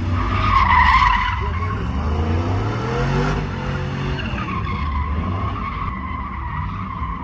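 Pickup truck doing a burnout: the engine revs up and down while the rear tires squeal. From about halfway on the tire squeal settles into a steady high tone.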